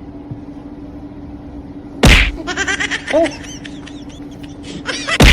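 Two loud thumps about three seconds apart, each followed by a flurry of rapid high-pitched squeaks, over a steady low hum.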